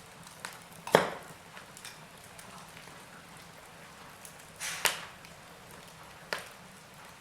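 Fireplace fire crackling: a few sharp, scattered pops, the loudest about a second in, a close pair near five seconds and one more a little later, over a faint steady hiss.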